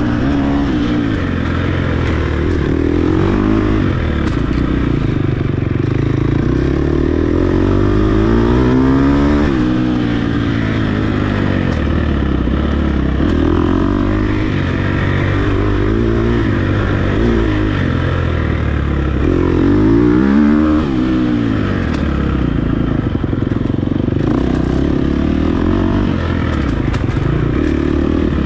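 Dirt bike engine revving hard and continuously, its pitch repeatedly climbing and dropping as the throttle opens and closes through the gears on rough terrain.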